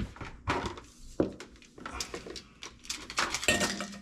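A series of knocks and clatters of objects being handled, growing busier near the end, where a short steady tone sounds alongside them.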